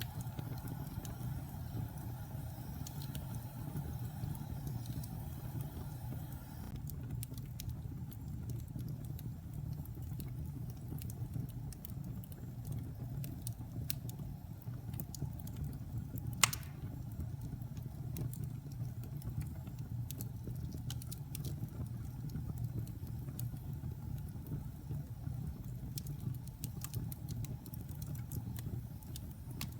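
Wood fire burning in a fireplace: a steady low rumble with scattered small crackles and one sharp loud pop about halfway through. A steady hum in the first seven seconds cuts off suddenly.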